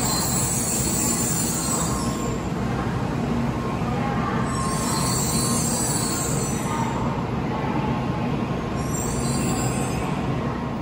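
N700A-series Shinkansen train braking along a station platform to a stop, its steady rumble overlaid by a high-pitched brake and wheel squeal that comes and goes three times.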